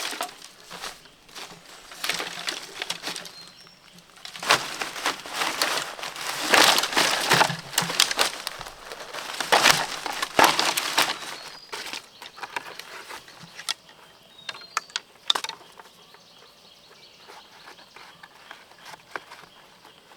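Rustling and crackling handling noise, as if dry plant material is being crushed or moved, in irregular bursts that are loudest in the middle, then a few sharp clicks and a quieter stretch, with faint high chirps now and then.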